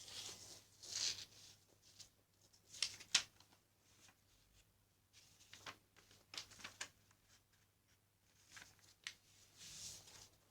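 A sheet of paper being handled and folded into a paper airplane: faint rustling and creasing in short, irregular bursts, with a few sharp crisp snaps.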